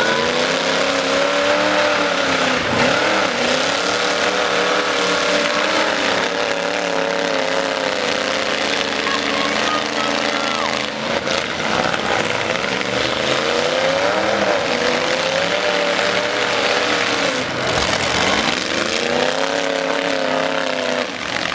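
Demolition derby truck engines revving hard, their pitch rising and falling every few seconds.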